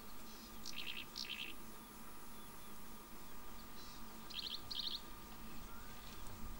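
A bird calling twice, each time with a pair of short, quick-pulsed notes, the first about a second in and the second about four and a half seconds in, with fainter small chirps behind.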